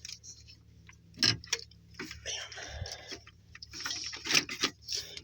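Scattered metallic clicks and knocks of a wrench fitting onto and working the alternator's lower mounting bolt, with a sharper knock about a second in and another near the end.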